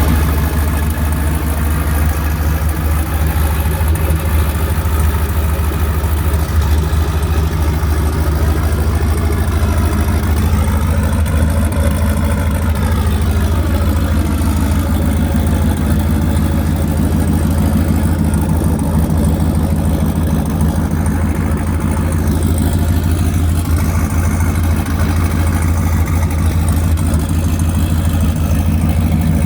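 Turbocharged LS V8 engine swapped into a BMW E46, idling steadily with a deep, even low note.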